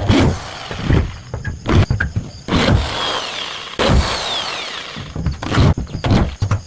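Building work: a run of irregular knocks and thuds with stretches of scraping tool noise between them.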